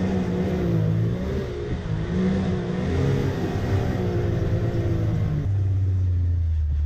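Off-road vehicle engine revving up and down, then settling to a steady low idle about five and a half seconds in.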